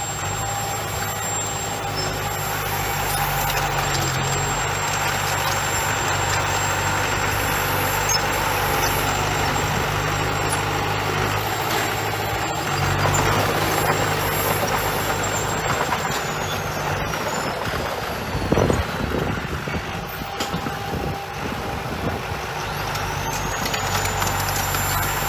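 Heavy diesel construction machinery running steadily at a site where a bulldozer and dump trucks are working, with one short, louder burst of sound about two-thirds of the way through.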